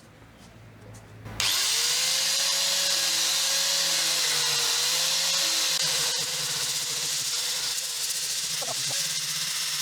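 An electric power tool's motor switches on about a second and a half in, spins up quickly and runs steadily with a loud, high hiss. It eases off a little about six seconds in.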